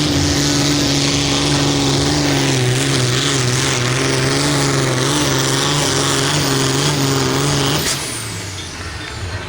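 Pulling tractor's engine running flat out at a steady high pitch as it drags the sled down the track, then shutting off about eight seconds in, at the end of the pull.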